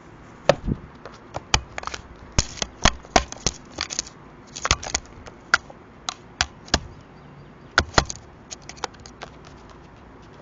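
Sharp, irregular taps and knocks right at the microphone, coming in quick clusters: a crow pecking at and handling an Arlo security camera.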